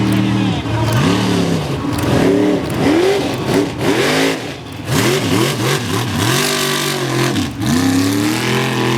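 Mega truck's big engine revving hard, its pitch climbing and dropping back over and over, about once a second.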